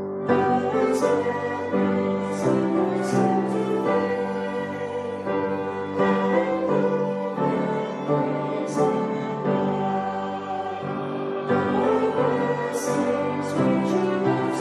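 Music with singing voices, choral in character: held notes moving in slow steps, with the sung consonants hissing now and then.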